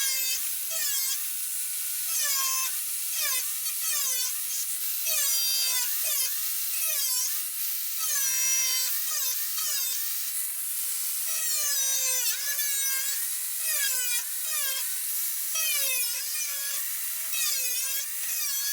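Angle grinder with a thin slitting disc cutting through the rusty sheet metal of a car boot lid: a high whine that keeps dipping in pitch as the disc bites into the metal and recovering as it eases off, over a steady hiss of cutting.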